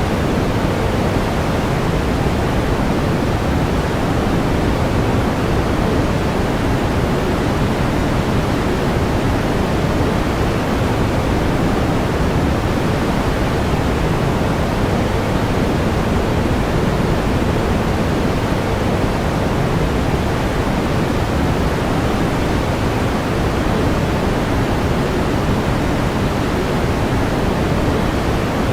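Steady, unchanging pink noise: an even hiss weighted toward the low end.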